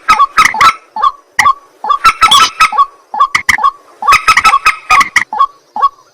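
White-breasted waterhen calling over and over, loud harsh croaking notes in quick bunches with short pauses between them.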